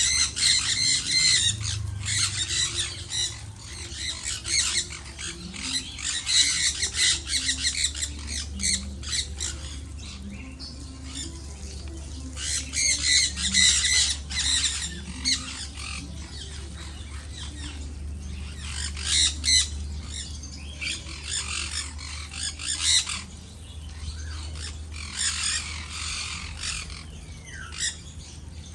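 Parrots squawking, with harsh calls coming in clusters and gaps between them, over a low steady hum.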